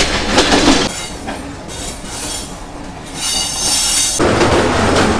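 Train running on the rails, loud at first, then quieter, with a high-pitched wheel squeal lasting about a second a little after three seconds in, before the running noise swells again.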